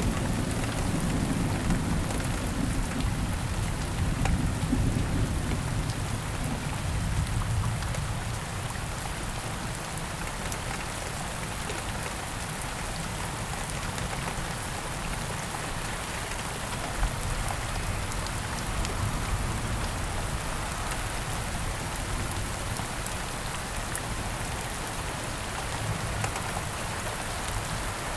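Steady rain falling, with a low thunder rumble dying away over the first several seconds.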